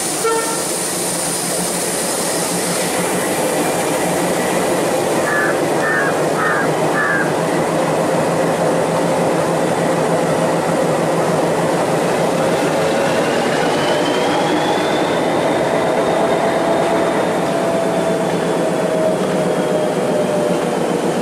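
Electric MEMU train running past the platform: a steady loud rumble of wheels on rail with a motor whine that rises in pitch about two-thirds of the way through, then eases slightly. Four short high beeps sound about five to seven seconds in.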